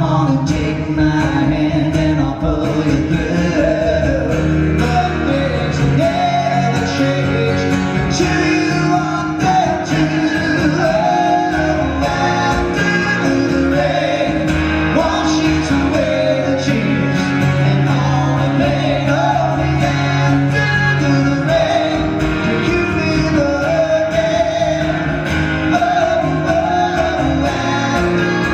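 Live rock band playing a power ballad, with male singing over guitars, bass and drums.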